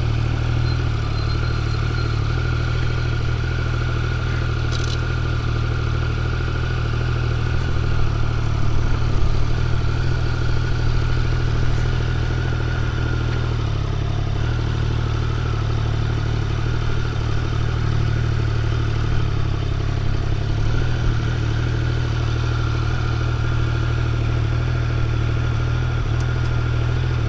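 Triumph Speed Triple 1200 RR's inline three-cylinder engine idling steadily.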